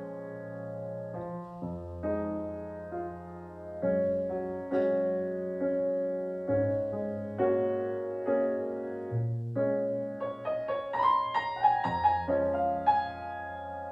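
Instrumental music led by a keyboard: chords struck every second or two and left to ring over sustained low bass notes, with a quicker run of higher notes about eleven seconds in.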